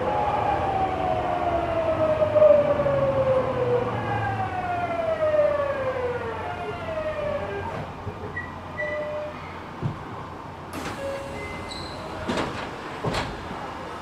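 Tokyu 9000 series train's VVVF inverter whine, heard from inside the car, falling in pitch in several stacked tones as the train slows into a station. The whine fades about halfway through as it nears a stop, then a few sharp clicks and knocks follow.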